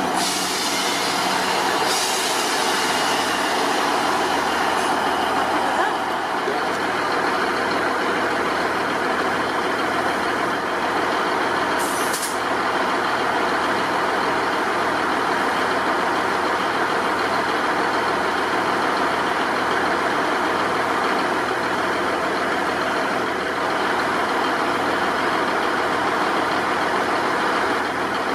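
Class 158 diesel multiple unit idling at the platform, a steady engine drone with a low pulsing beat and a short hiss of air about twelve seconds in.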